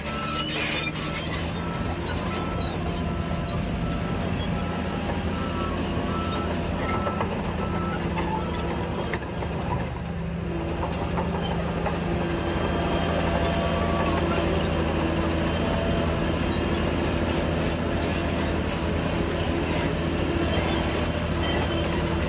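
Heavy diesel earthmoving machinery running steadily, growing louder about halfway through. A reversing alarm beeps at an even pace until about eight seconds in, then stops.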